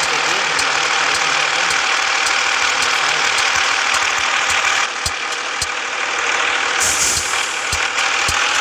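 Scania S 450 truck's six-cylinder diesel running steadily with dense road and engine noise, easing slightly about five seconds in, with a brief hiss near the end.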